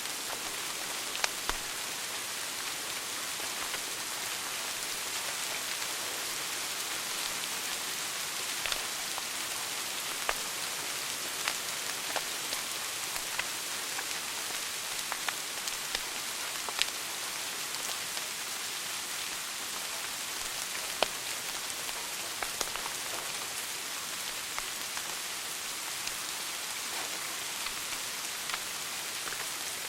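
Wood fire burning in a fireplace: a steady hiss with irregular sharp crackles and pops.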